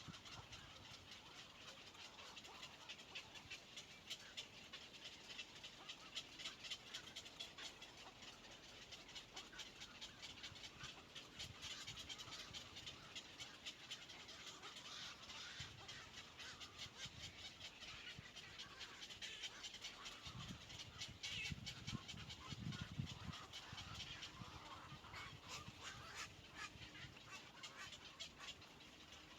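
Faint, rapid, high-pitched chirping and clicking from birds at a nest, typical of dove nestlings begging while being fed. A few low rumbling thumps come about two-thirds of the way through.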